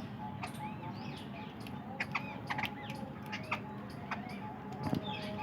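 Small birds chirping in many short, quick calls, with a few sharp clicks mixed in.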